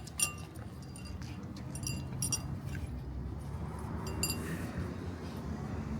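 Light metallic clinking: a few scattered clinks with a brief bright ring, in small clusters about two and four seconds in, over a low steady hum.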